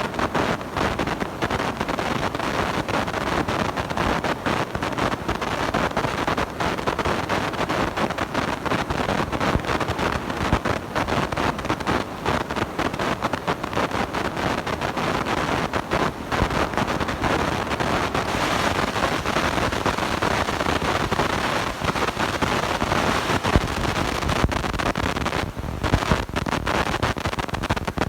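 Blown, overdriven microphone giving a steady, harsh crackling noise, dense with fine clicks.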